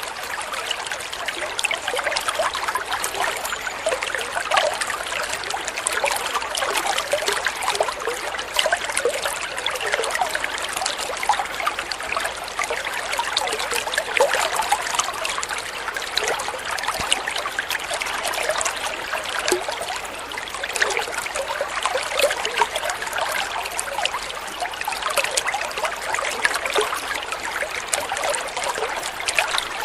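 Water flowing steadily, a trickling, babbling stream with many small splashes and gurgles.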